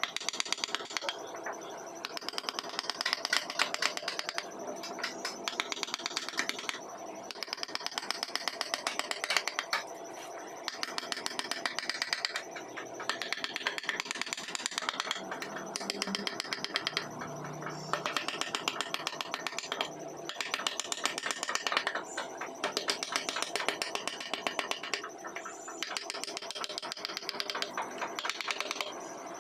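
Wood carving work: bursts of rapid clicking and scraping, each lasting a second or two, separated by short pauses.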